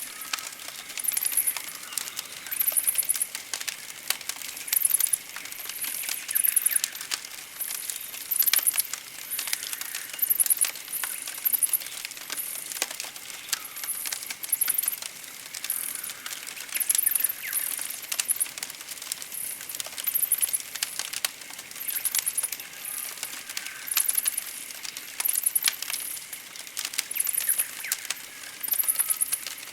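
Campfire crackling with frequent sharp pops and snaps, over a forest background of high, rapidly pulsing chirps that recur every second or two and faint birdsong.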